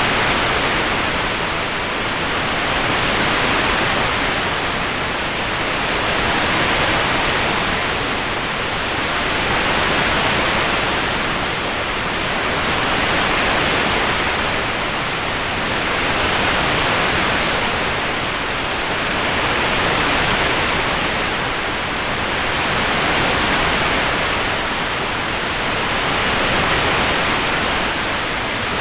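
Steady rain-sound ambience, an even hiss that swells and fades gently about every three and a half seconds.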